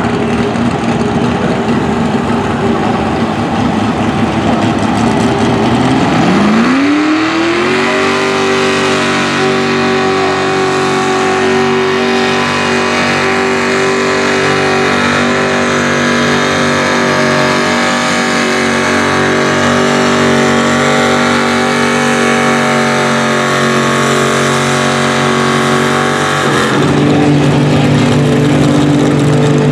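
Engine of a mini motorsport vehicle running rough and uneven, then revving up sharply about six seconds in and holding high, steady revs for about twenty seconds. Near the end it drops to a lower, steady pitch.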